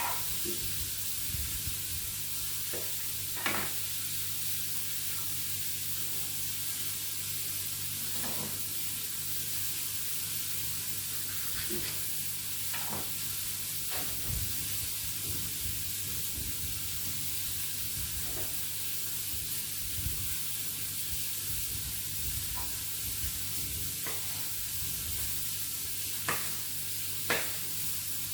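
Meat patties frying in hot oil in a pan, sizzling steadily over a low hum, with a few sharp knocks of a utensil or knife, two of them close together near the end.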